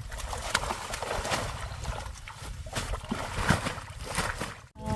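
Water splashing and sloshing in a string of short, sharp splashes over a rough low rumble, breaking off suddenly for a moment near the end.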